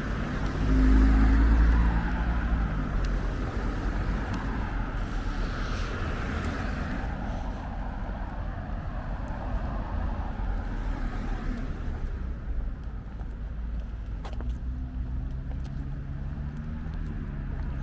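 Cars driving past on a street, one passing close and loud about a second in, with steady road noise and another engine near the end.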